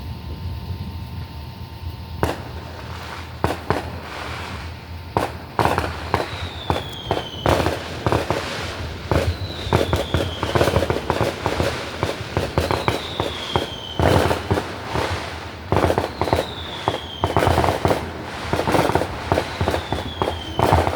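Fireworks going off in rapid volleys of sharp bangs and crackles, starting about two seconds in. A short falling whistle recurs every few seconds among the bangs.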